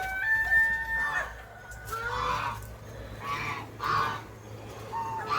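A rooster crowing, the held end of the crow breaking off about a second in, followed by several short chicken calls.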